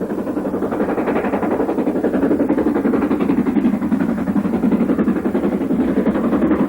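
Steam locomotive working hard, its exhaust a rapid, steady beat.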